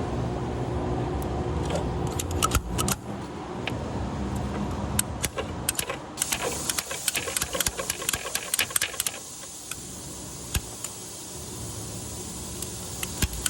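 Small metallic clicks and clinks of hand tools working the metal retaining clips off a V8's fuel injectors, scattered and irregular and thickest around the middle. A low steady hum underneath stops about three seconds in.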